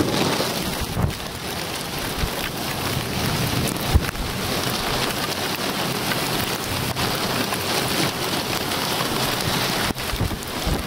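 Torrential thunderstorm downpour: a loud, steady hiss of heavy rain with gusting wind, and a couple of short thumps about one and four seconds in.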